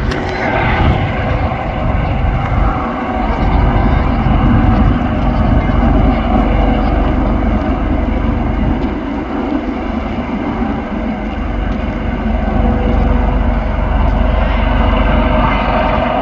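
Firefighting helicopter's turbine engine and rotor running loud and steady: a constant low rumble with a steady whine above it.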